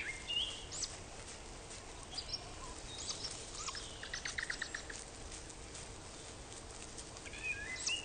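Faint high bird chirps and short calls, with a quick rattling series of clicks about three and a half seconds in, over quiet forest ambience.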